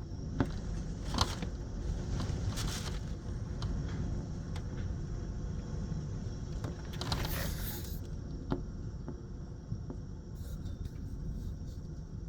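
Hurricane wind blowing in gusts, a constant low rumble of wind on the microphone, with scattered knocks and rattles and a louder hissing gust about seven seconds in.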